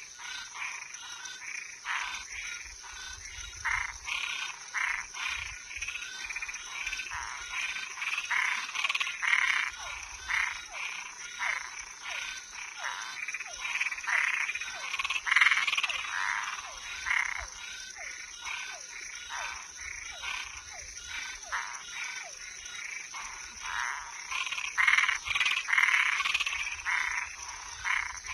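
Night chorus of frogs and treefrogs: many short, overlapping calls repeating throughout, over a steady high-pitched drone.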